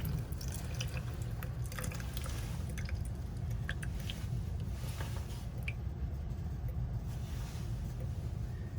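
Faint, scattered drips and small ticks of residual water at a utility-sink faucet just shut off, over a steady low rumble.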